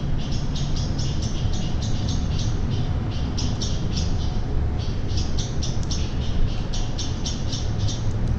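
A small bird calling in fast runs of short, sharp, high notes, about four to five a second, broken by brief pauses, over a steady low rumble.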